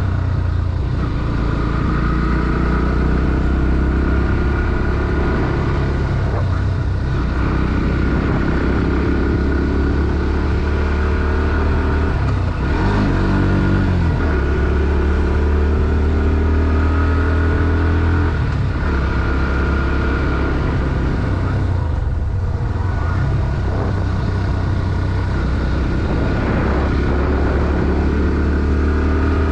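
Bajaj Pulsar NS160's single-cylinder four-stroke engine running under load, its note climbing and falling through the gears, with a sharp drop and rise in pitch about halfway through.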